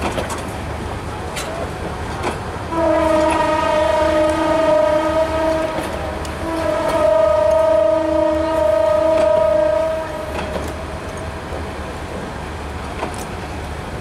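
Bangladesh Railway passenger coaches rolling slowly past with a low rumble and scattered clacks of wheels over rail joints. About three seconds in, a train horn sounds two long blasts back to back, lasting about seven seconds together.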